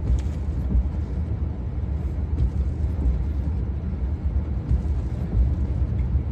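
Steady low rumble of a vehicle's engine idling, heard from inside the cab.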